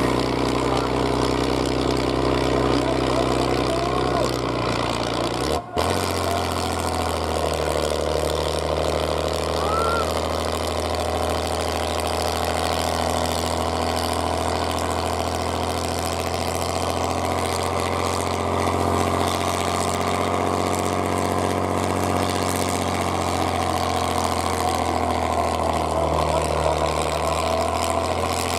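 Heavy truck diesel engine running steadily at low revs. About six seconds in the sound breaks off for an instant, and the engine note that follows is different.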